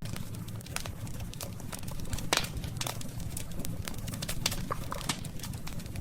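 Wood fire burning with irregular sharp crackles and pops over a steady low rumble; the loudest pop comes a little past two seconds in.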